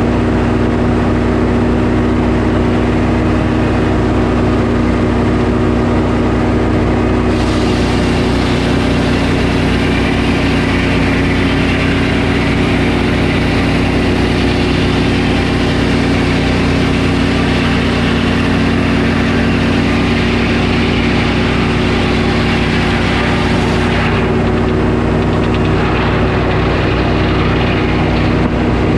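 Sawmill engine running steadily. From about seven seconds in until about twenty-four seconds a hiss joins it as the blade cuts through the pine log, then drops away while the engine keeps running.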